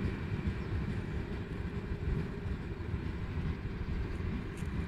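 Passenger train running away on the rails, a low steady rumble slowly fading as it recedes.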